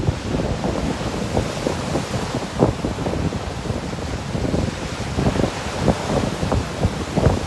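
Sea surf washing, with wind buffeting the microphone in irregular low gusts.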